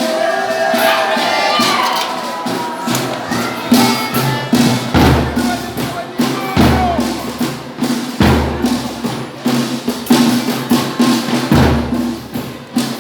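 Folia de Reis music: singing voices over a jingling tambourine, with a deep drum struck slowly, about once every second and a half, from about five seconds in.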